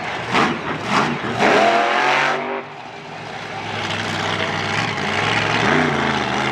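Monster truck engine revving hard, its pitch climbing, then dropping off sharply about two and a half seconds in. It comes back in as a steady low rumble that builds again, with a short blip of the throttle near the end.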